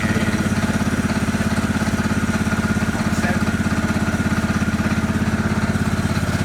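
Small engine idling steadily, with a fast, even beat.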